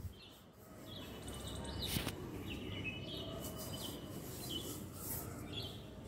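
Birds chirping repeatedly in short, high calls over a faint outdoor background, with a single soft tap about two seconds in.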